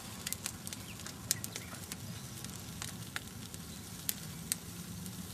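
Bonfire crackling: scattered sharp pops and snaps over a low steady rumble.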